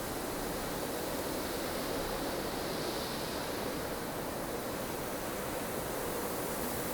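Strong snowstorm wind blowing steadily, an even rushing noise without breaks, with a slight swell in the higher hiss about halfway through.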